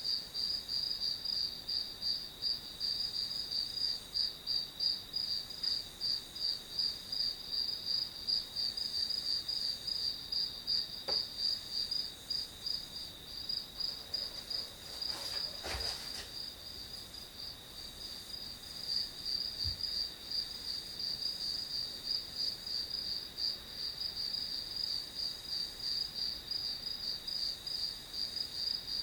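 Crickets chirping without a break, a fast, even pulsing at one high pitch. A brief soft knock sounds about halfway through.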